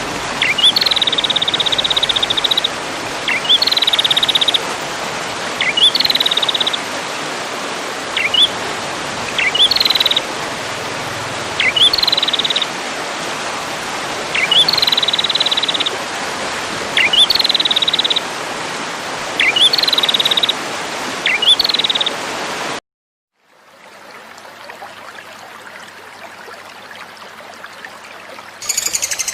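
A recorded bird call repeated about every two seconds, each a quick upward chirp followed by a short buzzy trill, over a steady hiss. It cuts off abruptly about 23 seconds in, leaving fainter hiss, and a different, louder bird song starts near the end.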